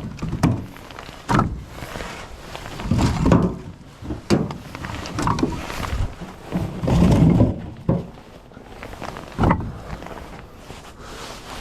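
Split firewood pieces knocking and thudding as they are handled and dropped onto one another while being loaded. The impacts are irregular, about seven of them, some single and some in quick clusters.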